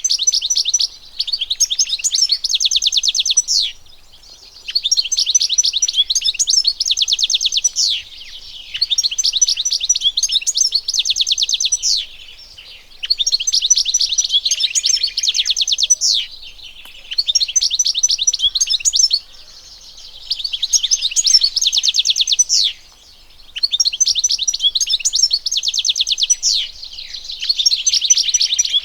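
European goldfinch singing: long phrases of fast, high twittering notes, broken by short pauses every few seconds.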